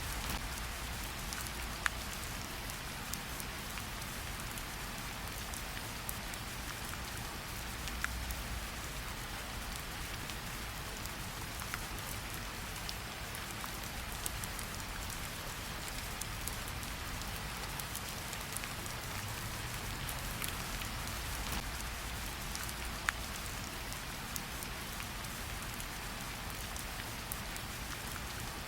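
Steady rain falling, with now and then a single sharper drop ticking out of the patter.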